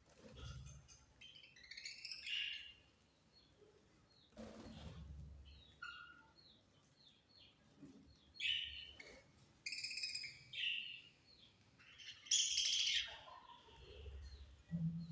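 Budgerigars chirping: a string of short, high chirps and twitters, with the busiest, loudest chattering about twelve seconds in. A few low bumps sound beneath them.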